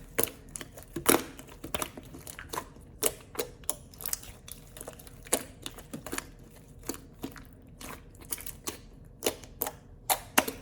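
Purple slime being squeezed and folded by hand, making irregular sharp clicks and pops, sometimes several in quick succession.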